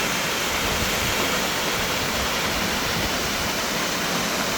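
Pistyll Rhaeadr, a tall waterfall, pouring steadily: an even, loud rush of falling water.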